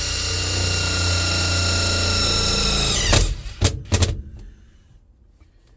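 Power drill driving a screw: the motor runs at a steady high whine for about three seconds, winds down, and is followed by a few sharp clicks or knocks.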